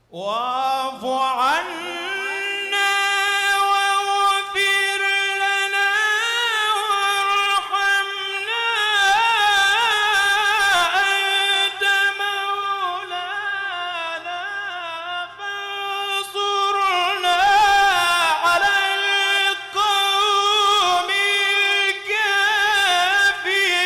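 A single voice in melodic Quran recitation, drawn out into long ornamented notes that waver and bend in pitch, with brief pauses for breath; it starts out of silence at the very start.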